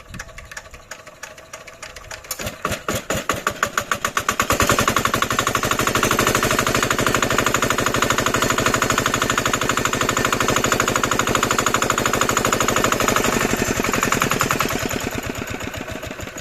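Diesel engine firing up: its knocking beats quicken over the first few seconds into a loud, fast, even run, then die away near the end.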